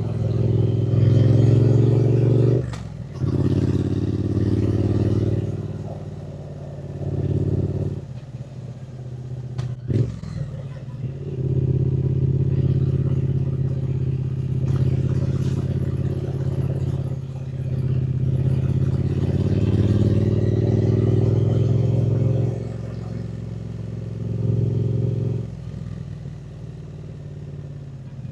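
Triumph Speed Twin 900's 270° parallel-twin engine heard from the saddle while riding, the throttle opening and easing off. The engine note breaks briefly, with a click, about 3 and 10 seconds in.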